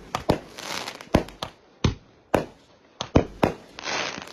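Fireworks going off: about a dozen sharp bangs at irregular intervals, with two short stretches of hissing, one about half a second in and one near the end.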